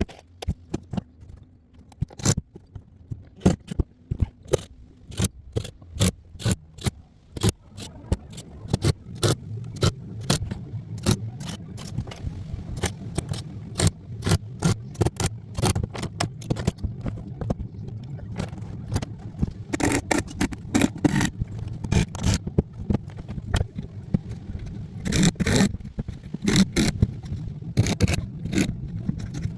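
Metal roofing work: irregular sharp clicks, knocks and scrapes of sheet-metal roofing being handled and fastened, over a steady low rumble. The knocks come thickest in two bunches in the second half.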